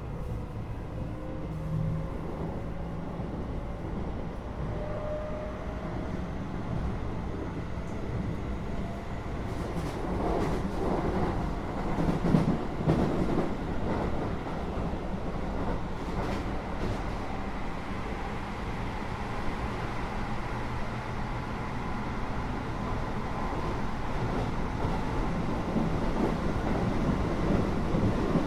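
Keio 8000 series electric train heard from inside the car above its Hitachi GTO-VVVF main controller, running on the line. Faint inverter tones rise in pitch over the first few seconds. After that comes a steady rolling rumble, with a run of sharp wheel-on-rail clicks around the middle, growing slowly louder toward the end.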